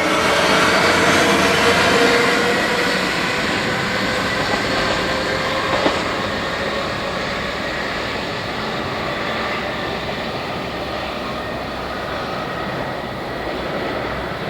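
A train running along the tracks, a steady rumble that slowly grows quieter. Several high tones fade out in the first few seconds, and a single knock comes about six seconds in.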